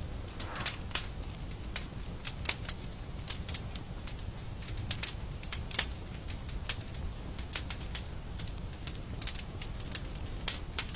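Wood fire crackling and popping: sharp, irregular snaps several times a second over a steady low rumble of the burning fire.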